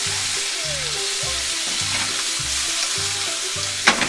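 Chicken pieces sizzling in olive oil in a frying pan while being stirred and turned with cooking chopsticks, with one sharp knock of the chopsticks against the pan near the end.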